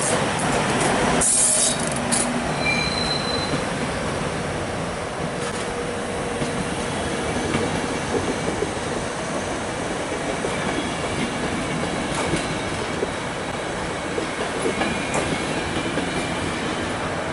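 E.444 electric locomotive hauling a train of passenger coaches out of the station, with the steady rolling noise of wheels on rail, a short loud hiss about a second in, faint wheel squeal, and wheels clicking over rail joints in the second half.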